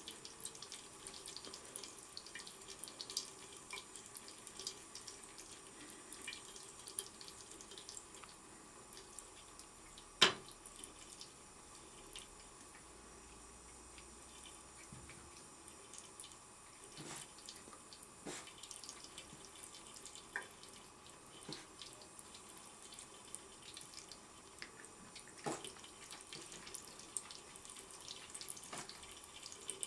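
Tap water running into a sink, with scattered splashes and clicks. One sharp knock about ten seconds in is much louder than the rest.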